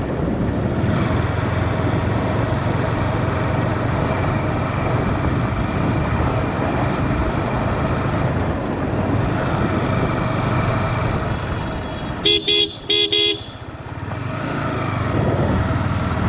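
Yamaha R15 motorcycle running at road speed, a steady engine and wind noise. About twelve seconds in, a horn sounds three short times; the riding sound dips briefly afterwards and then builds again.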